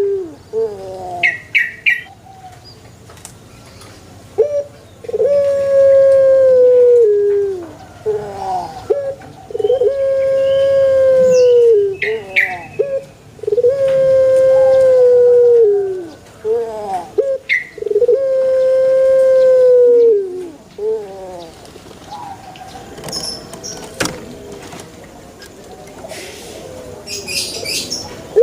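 Male Barbary dove (burung puter) cooing: about four long, steady coos, each a couple of seconds long, with short notes between them. The cooing pauses for the last several seconds, where brief high chirps are heard.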